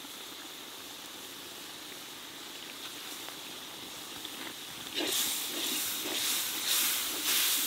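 Onion, chilli, ginger-garlic and curd masala sizzling and steaming in a hot black kadai as red chilli powder is added. The sizzle is soft and steady at first, then grows louder about five seconds in and surges in waves.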